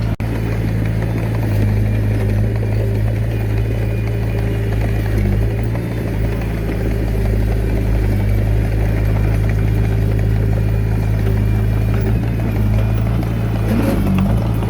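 Diesel engine of a Komatsu D21A mini bulldozer running steadily under work, with a constant low drone.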